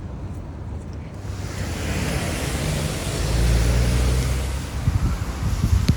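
A car passing on a rain-wet road: the hiss of its tyres and a low engine rumble swell, peak about halfway through and fade away. Wind buffets the microphone near the end.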